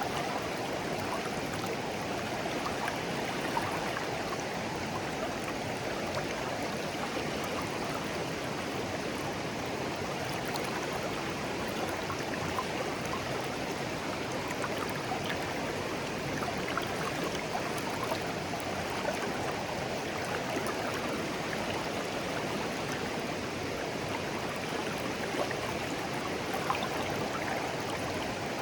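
Clear shallow stream flowing steadily, water babbling and trickling over stones with many small splashes.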